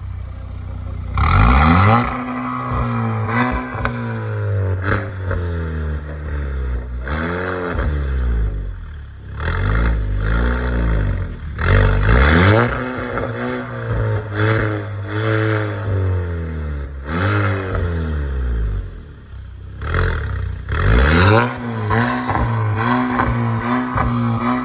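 Volkswagen Golf MK8 1.5 eTSI turbocharged four-cylinder petrol engine through an aftermarket Emil exhaust with downpipe and Varex valved exhaust, revved about eight times, each time climbing and falling back to a steady idle.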